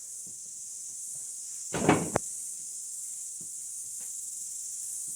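A steady high-pitched hiss throughout, with a short knock or clatter about two seconds in and a few faint clicks, as of things being handled while tidying up.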